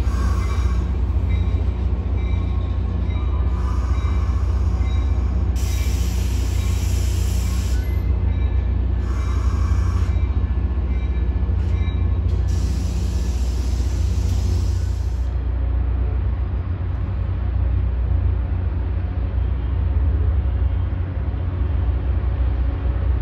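Passenger trains at a station: a steady low rumble with faint high wheel squeal, and three bursts of hissing in the middle stretch.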